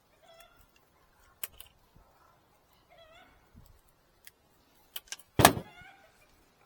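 Handling and fastening wooden beehive frames: a few light clicks, then one loud sharp knock about five and a half seconds in.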